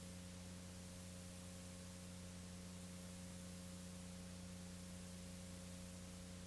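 Steady low electrical hum with an even hiss: the recording's noise floor with no program sound.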